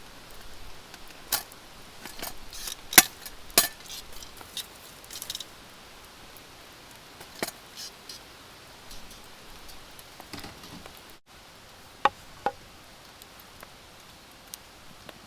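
Scattered sharp knocks and clicks of things being handled, the loudest about three seconds in and a pair near the end, over a steady faint hiss.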